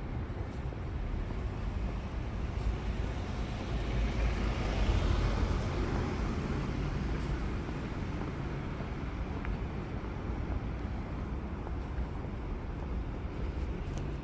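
City street traffic: a steady rumble of road vehicles, with one vehicle passing close and swelling loudest about five seconds in before fading back into the traffic noise.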